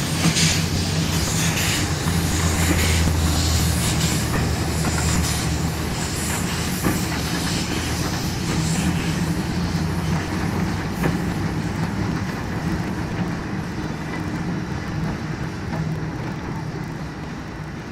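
A train running on the rails with a steady low hum and some wheel clatter, its sound slowly fading as it moves away.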